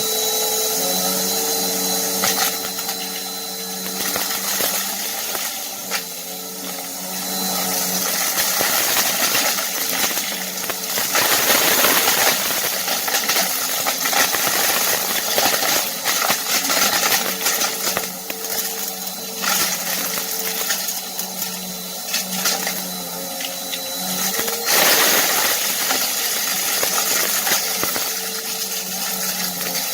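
Bissell vacuum cleaner running, its motor humming steadily while the brushroll crunches and crackles through debris, louder in surges about a third of the way in and again near the end.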